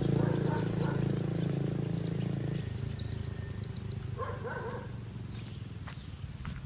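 High, thin chirps of olive-backed (yellow-bellied) sunbirds, with a quick run of about eight chirps about three seconds in. A steady low hum runs under them and stops abruptly about two and a half seconds in.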